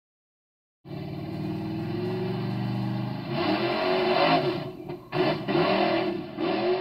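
A motor-vehicle engine revving, played as an added sound clip that cuts in and out sharply. It revs up in three surges, each louder than the steady start.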